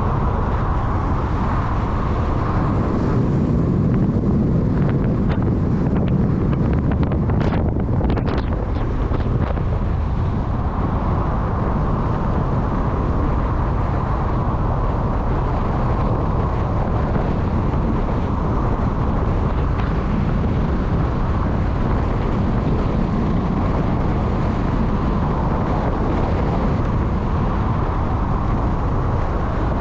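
Steady rumble of a moving vehicle, with wind noise on the microphone.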